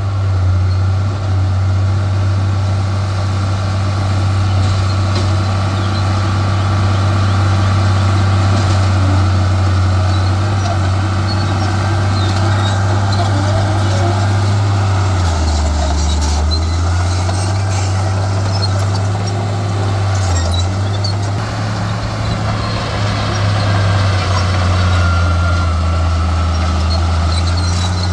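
Heavy diesel engine of earthmoving machinery running steadily under load, a loud low drone whose pitch drops for a second or two about halfway through and again briefly a few seconds later.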